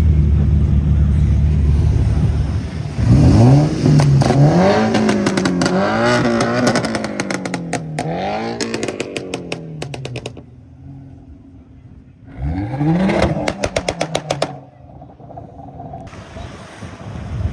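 BMW car engine idling, then revved up and down several times, with a second sharp rev about twelve seconds in. Rapid strings of exhaust pops and crackles come as the revs drop.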